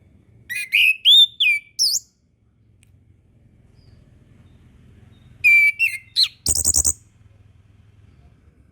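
Orange-headed thrush singing: two short phrases of quick, sliding whistled notes a few seconds apart, the second ending in a loud harsh buzzy note.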